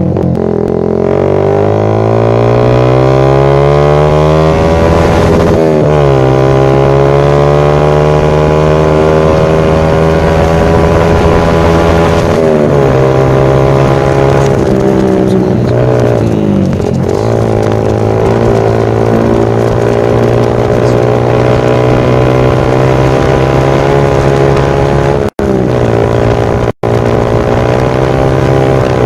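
Yamaha Vixion's single-cylinder engine running loud through a Kou Mahachai racing exhaust, revved up and held, with the revs dipping and climbing again several times. The sound cuts out completely for an instant twice near the end.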